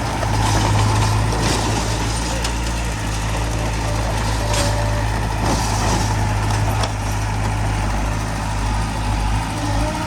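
Heavy diesel machinery running steadily with a deep engine hum, with a few sharp clanks or knocks scattered through it.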